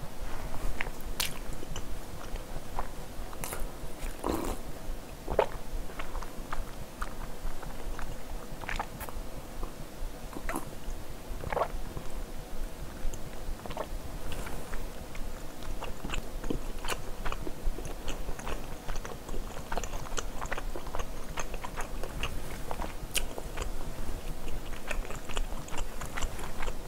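A person chewing a mouthful of food close to the microphone, with irregular short wet clicks from the mouth.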